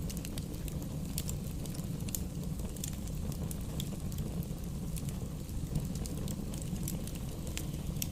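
Wood fire burning in a fireplace: a steady low rumble with frequent small, irregular crackles and pops from the burning logs.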